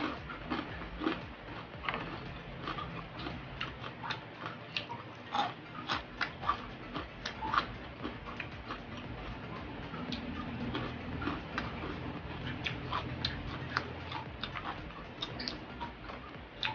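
Close-up crunching and wet mouth clicks of someone chewing crispy fried chicken skin, in irregular bites.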